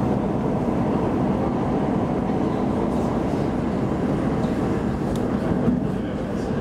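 An X10 commuter electric multiple unit running at speed, heard from inside the passenger car as a steady low rumble of wheels and running gear, with a few faint ticks.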